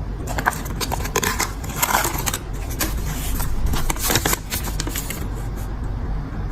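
Packaging being handled and unwrapped by hand: irregular rustling, scraping and light clicks.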